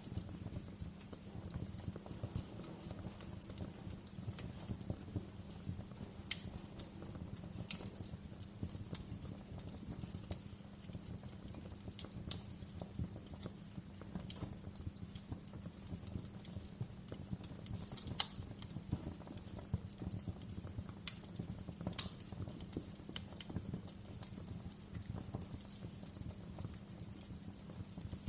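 Wood fire crackling steadily: a dense low rumble of small crackles with sharper pops scattered through it, the two loudest about two thirds of the way in and again about four seconds later.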